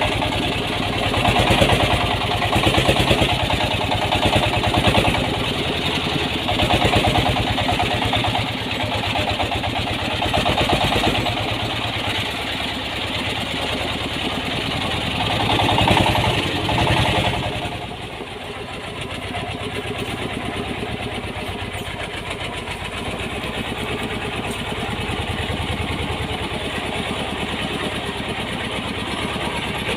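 Diesel engine of a home-built mini dump truck running with a rapid, even beat; about 17 seconds in it drops to a quieter, steadier running.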